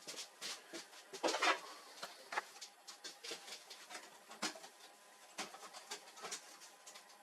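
Irregular light clicks, taps and scrapes of hands handling and working on a laser printer's plastic and metal parts, with a louder cluster of clatter about a second and a half in.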